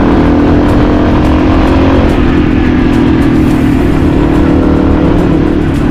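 Motorcycle engine running at a steady pitch while riding, with heavy wind rumble on the microphone.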